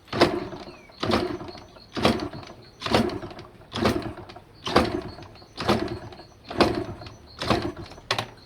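Yamaha DT125 LC two-stroke motorcycle being kick-started: about nine kicks, roughly one a second, each a sharp clunk with a brief turnover of the engine that dies away without catching.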